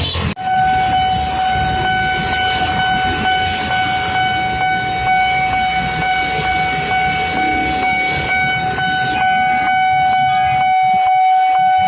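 Railway level-crossing warning alarm sounding one steady high tone while a KRL electric commuter train rumbles past. Wheels clack over the rail joints in a regular rhythm near the end.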